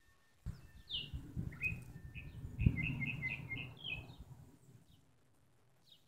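A bird chirping: a short falling call about a second in, then a quick run of short high chirps, over a low rumbling noise with a sharp knock near the middle.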